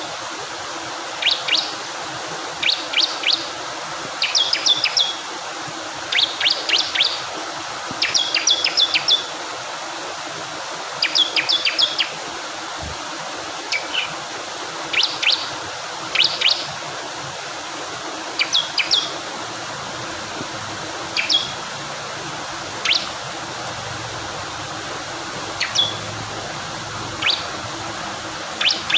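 Bar-winged prinia (ciblek kristal) calling in quick bursts of several sharp, high chirps, repeated every second or two and thinning to single notes in the second half. Underneath runs a steady rush of flowing water.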